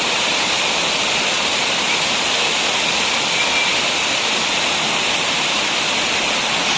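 Waterfall: a steady rush of falling, splashing water with no breaks or changes.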